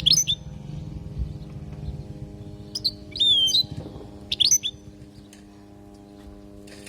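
European goldfinch calling with short, sharp twittering chirps at the start and again about four and a half seconds in, and a longer twittered phrase with a whistled note about three seconds in. A steady low hum runs underneath.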